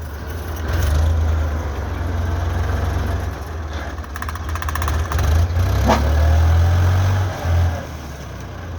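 Tractor engine running hard under load, its low rumble swelling twice as the driver gives it throttle, with the tractor stuck and straining to pull free.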